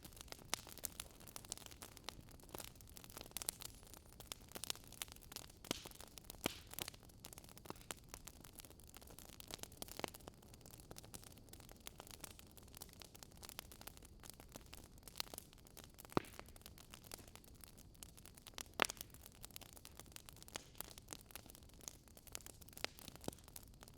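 Burning firewood crackling: irregular sharp snaps and pops, a few of them louder, over a faint steady hiss.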